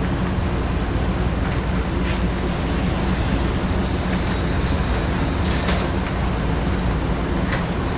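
HO scale slot cars and a model train running on the layout: a steady electric-motor buzz and the rattle of small wheels on track, with a few sharp clicks.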